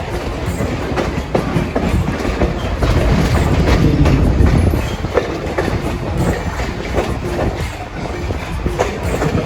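Passenger train running along the track, heard from on board: a steady low rumble with scattered wheel-on-rail clicks, growing louder for a couple of seconds in the middle.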